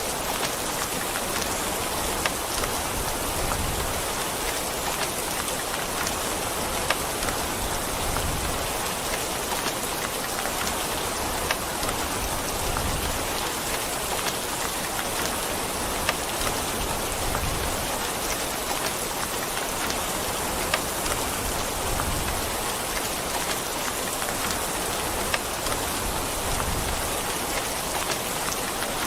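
Steady rain falling on a surface, an even hiss with scattered sharper drop ticks every few seconds.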